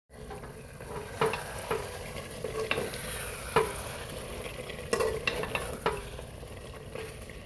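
Mutton curry frying in a pan with a steady sizzle while a spoon stirs it, knocking against the pan several times.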